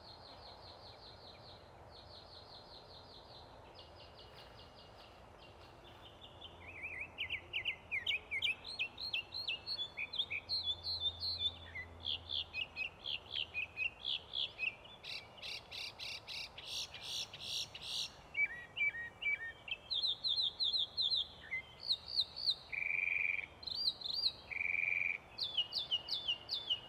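Birds singing: high, rapid trills at first, then from about six seconds in a busy run of short, sweeping chirps, with a couple of held whistled notes near the end.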